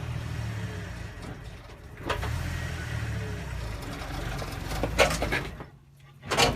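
Off-road rig's engine running under load as it tries to climb a rock ledge, pulling harder for a few seconds, with a couple of sharp knocks along the way. Near the end the engine falls away, as if the throttle is let off.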